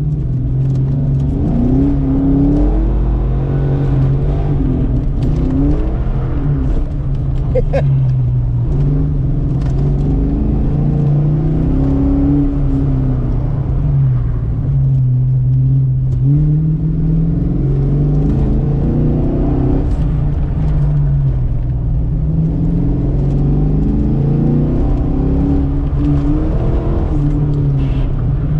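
1990 Fox-body Mustang's 5.0-litre V8 driven hard through an autocross course, the engine note rising and falling over and over as it accelerates, lifts and accelerates again.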